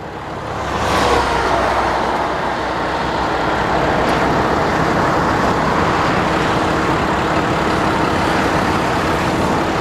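Steady road and wind noise of a vehicle driving at highway speed. It swells over the first second, then holds even, with a faint steady hum underneath.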